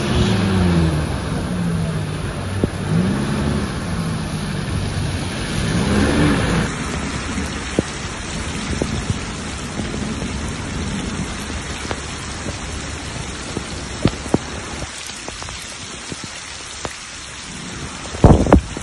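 Heavy rain pouring onto a flooded road: a steady hiss with scattered sharp taps of drops. A low wavering hum rises and falls through the first six seconds, and a couple of sharp knocks come near the end.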